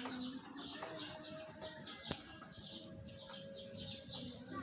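Small birds chirping, many short high chirps one after another, with a single sharp click about two seconds in.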